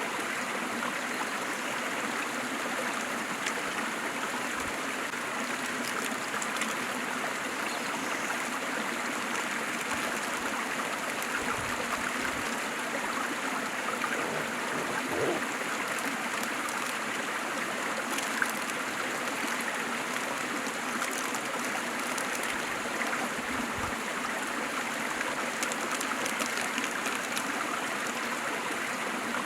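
Water of a small waterfall rushing and splashing in a steady, even wash of noise, with small droplet splashes here and there.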